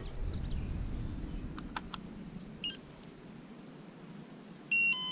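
Small electronic device beeping: a short chirp of beeps about halfway through, then a louder beep in two tones near the end. A low rumble of handling noise and a few faint clicks come first.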